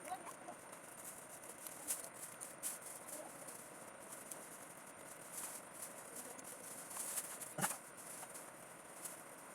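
Scattered light clicks and rustling, as of small parts being handled, with one sharper click a little before the end.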